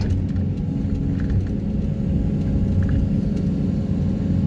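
Excavator rig with a Daedong 350T vibro hammer for pulling sheet piles, its engine and hydraulics running with a steady low rumble.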